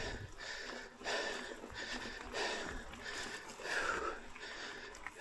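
A person breathing hard, with heavy rhythmic breaths about one a second: a rider catching their breath at the top of a climb.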